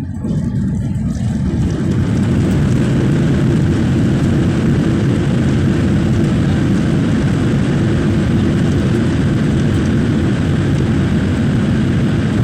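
Airliner noise heard from inside the cabin during the landing: a loud, steady rumble of engines and rushing air that swells over the first two seconds and then holds level.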